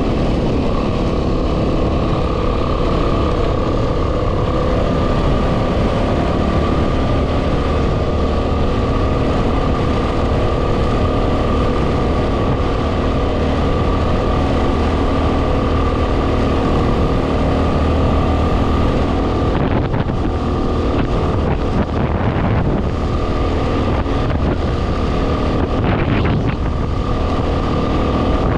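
2010 Yamaha WR250R's single-cylinder 250 cc engine running at a steady cruising speed, with heavy wind noise on the microphone. From about two-thirds of the way in, short knocks and gusts break through.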